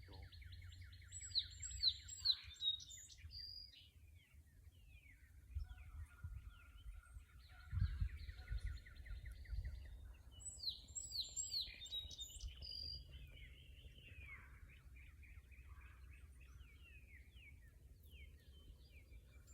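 Several songbirds singing in woodland, their songs overlapping: rapid trills and runs of chirps, fairly faint. A brief low rumble comes about eight seconds in.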